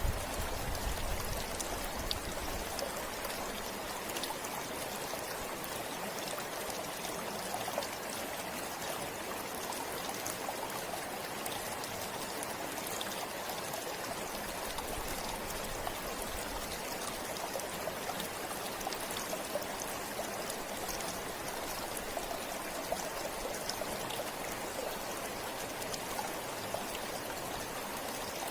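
River water flowing steadily over rocks, an even rushing with faint scattered splashes and drips. A low rumble is heard only in the first couple of seconds.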